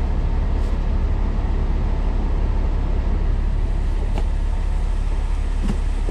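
Semi truck's diesel engine idling with a steady low rumble, heard inside the cab, with a few faint clicks of handling.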